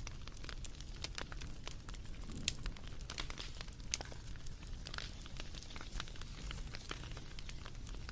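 Wood fire crackling, with irregular sharp pops and snaps over a low rumble of burning logs; two louder pops stand out partway through.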